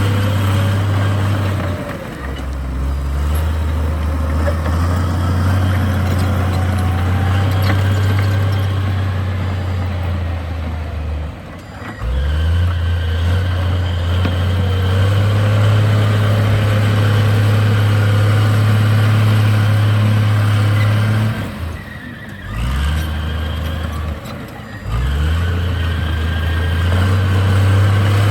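Heavy diesel engine of earthmoving machinery running hard under steady load. Its low note drops briefly four times, about two, twelve, twenty-two and twenty-five seconds in, and climbs back each time as the load and revs change.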